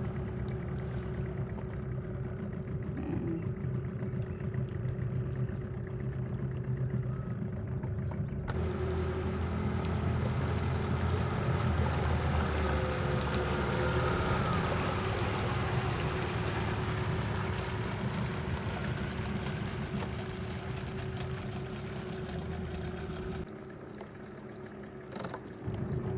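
A motorboat engine runs steadily. About eight seconds in a loud rushing hiss joins it and lasts about fifteen seconds before dropping away near the end.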